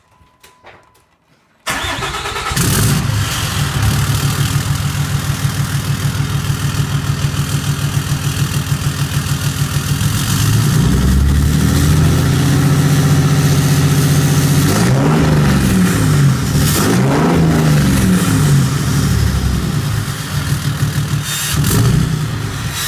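6.7-litre Cummins turbo-diesel straight-six, straight-piped through a 6-inch turbo-back exhaust with the DPF, cat and muffler deleted, starting up suddenly about two seconds in and settling into a loud idle. It is revved up and back down twice past the middle, with one more short blip near the end.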